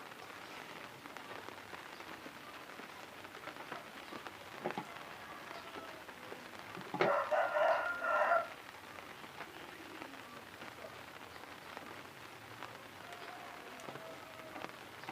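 A rooster crowing once, about seven seconds in, for about a second and a half, over a faint steady hiss with a few scattered clicks.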